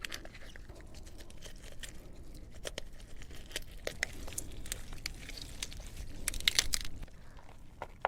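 Crab innards being squeezed out and worked into rice in a crab shell: scattered clicks and crinkly, wet scraping, louder for a moment about six seconds in.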